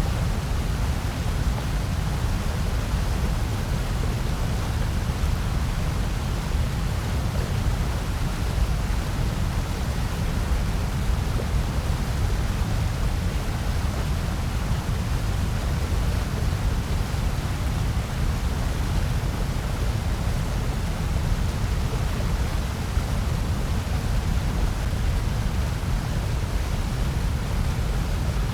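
Steady electronically generated noise, sold as white noise, unchanging, with most of its energy in a deep low rumble and a softer hiss above it.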